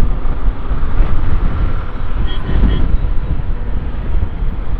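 Wind rushing over the microphone of a moving motorcycle, a heavy low rumble, with the engine and road traffic underneath.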